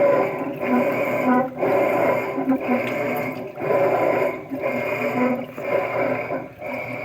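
Amana top-load washing machine running with a grinding noise that swells and drops about once a second; the owner does not know its cause.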